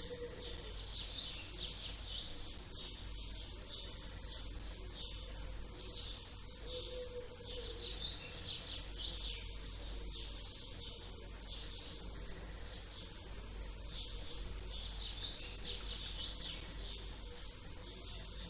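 Small songbirds chirping and twittering in many quick, overlapping calls, over a steady low background rumble.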